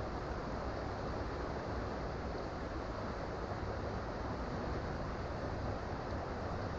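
Creek water flowing, a steady, even rushing.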